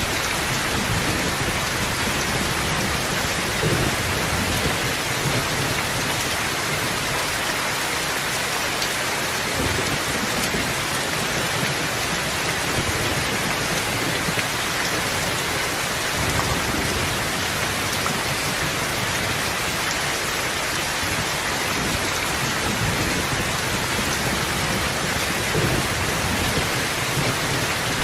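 Steady heavy rain falling, a dense even hiss of drops, with low rumbles of thunder rising now and then.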